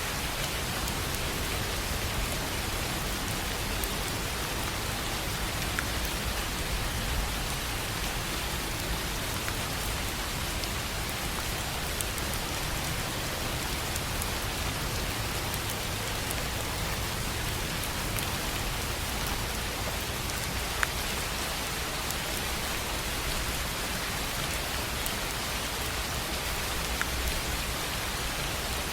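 Steady rain drumming on a tin roof, an even patter with an occasional louder drop ticking out of it.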